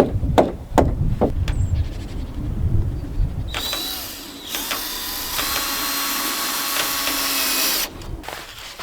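A few sharp knocks, then a handheld power tool runs for about four seconds with a steady motor whine, easing briefly about a second in before running on and stopping.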